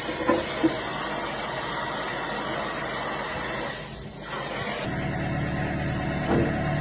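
Steady hiss of a torch heating steel for about four seconds, then, after a cut, a machine's engine running steadily with a couple of knocks near the end.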